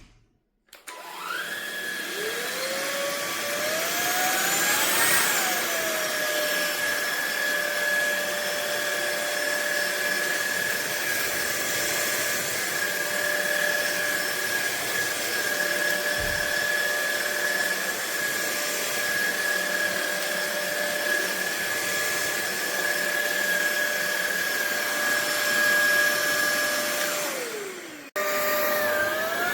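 Fieety 50 kPa/600 W cordless stick vacuum's motor switching on and spinning up with a rising whine. It runs at a steady pitch for over twenty seconds, winds down and stops just before the end, then starts up again.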